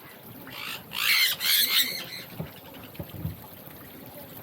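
Small bird giving a harsh burst of screeching squawks from about half a second to two seconds in, followed by a few faint clicks.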